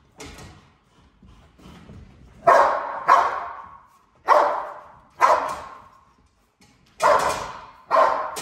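A dog barking: a few faint barks, then from about two and a half seconds in six loud single barks roughly a second apart, each with an echoing tail.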